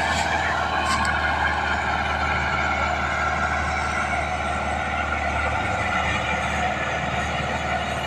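Tractor's diesel engine running at a steady speed, a constant low drone with mechanical clatter over it.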